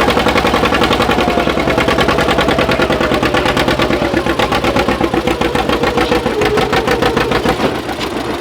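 Tractor engine running hard and loud under load at a tractor pull, its firing rapid and even, with the engine note sinking gradually as it is pulled down.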